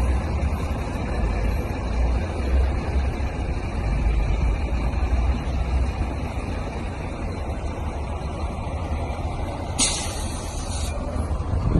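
Steady low rumble of a road vehicle on the move, with a burst of hiss lasting about a second near the end.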